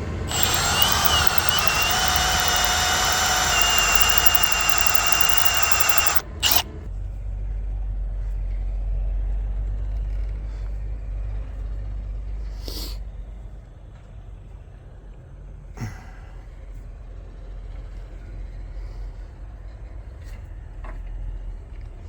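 A power tool runs steadily for about six seconds with a high whine, then cuts off suddenly. A low steady rumble follows, broken by a few light clicks.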